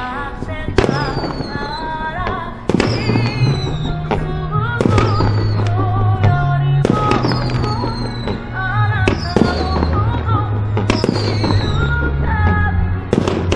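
Fireworks shells bursting, a sharp bang every second or two, over music with a singing voice and a steady bass line.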